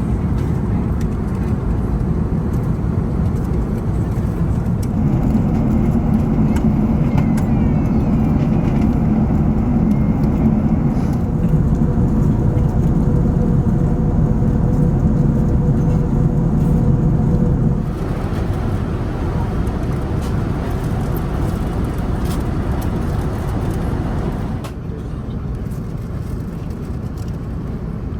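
Airbus A380 cabin noise: a loud, steady low rumble of engines and airflow. Its pitch and level shift abruptly about 5 s in, about 18 s in and near the end.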